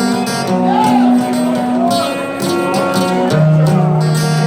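Live band music: sustained chords and held notes, with a few sliding pitches.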